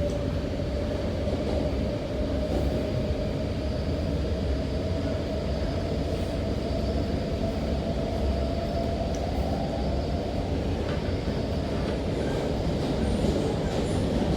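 MTR Rotem K-Train (Tseung Kwan O Line EMU) running between stations, heard from inside the car: a steady low rumble of wheels on rail with a motor whine that slowly rises in pitch over about ten seconds and then fades.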